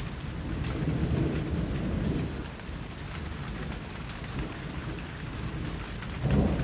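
Steady rain falling, with deep rumbles swelling about a second in and again near the end.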